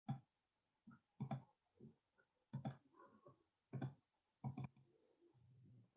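A series of faint, sharp clicks and knocks, about five of them roughly a second apart, several coming as quick doubles.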